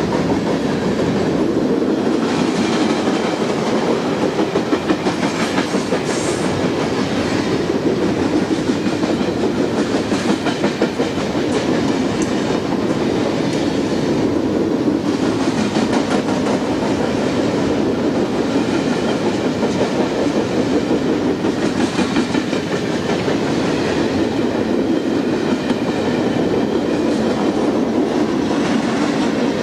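Train rolling past without a break: a steady rumble with the clickety-clack of wheels over the rails.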